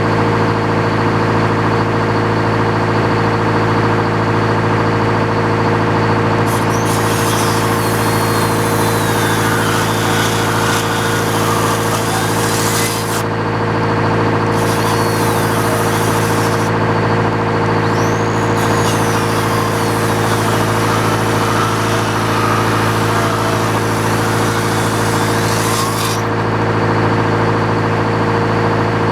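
Old Frick sawmill running steadily on its engine, with the circular saw blade cutting into wood in three stretches: a loud hiss comes in about six seconds in, breaks off briefly twice, and stops a few seconds before the end.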